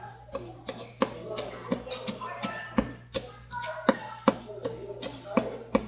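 A knife knocking on a cutting board as a flounder is sliced thin through the bone for sekkoshi: a run of sharp, uneven chops, about two to three a second.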